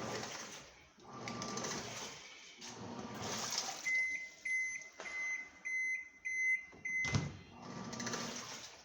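Top-loading washing machine running, its pulsator churning the water back and forth in surges about a second apart. Midway, the machine's control panel gives a run of short electronic beeps, followed by a low thump before the churning resumes.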